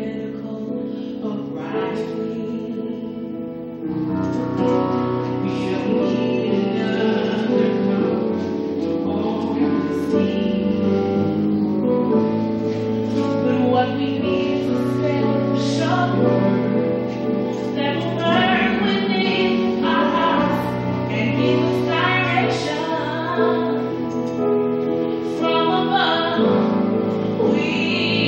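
Choir singing with instrumental accompaniment, getting louder about four seconds in.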